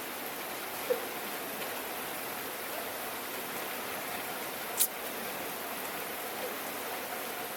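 Steady rain falling, an even hiss, with a couple of sharper single drop sounds: a small one about a second in and a louder, brighter one about five seconds in.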